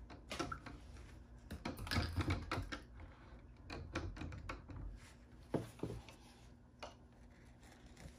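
Hands handling toy blind-bag packaging: a run of quick clicks and crinkles, busiest around two seconds in and thinning out toward the end.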